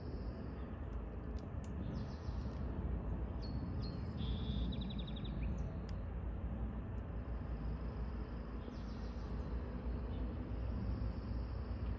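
Small birds chirping and trilling in the trees, several short high phrases including one fast run of repeated notes, over a steady low background rumble.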